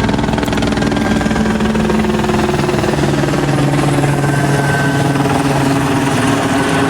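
Police helicopter overhead, its rotor beating rapidly and steadily over a constant engine drone.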